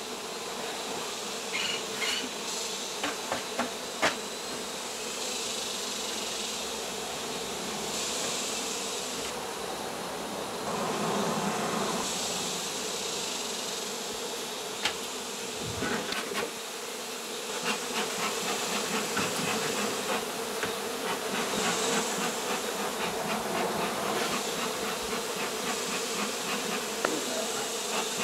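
A honey bee colony buzzing steadily, a dense hum from the exposed hive being worked, with scattered light clicks and knocks.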